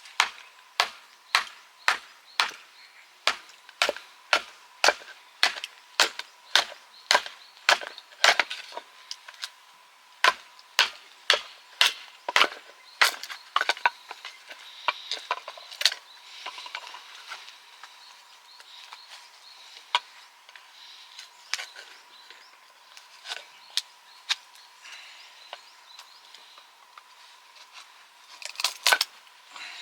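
Firewood being chopped or split: sharp, regular strikes, about one and a half a second for the first half, then thinning to scattered strikes, with a quick flurry near the end.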